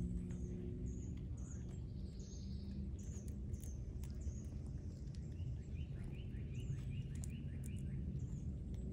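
Small birds chirping: short high chirps repeating throughout, joined from about six seconds in by a quick series of falling notes, over a steady low background rumble.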